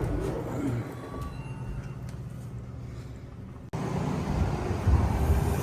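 Low, steady rumble of heavy vehicle engines running. It breaks off abruptly about three and a half seconds in and comes straight back slightly louder.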